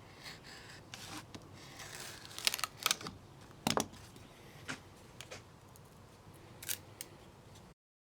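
Scattered, irregular light clicks and taps over a low background hiss, with the sound cutting off abruptly to dead silence near the end.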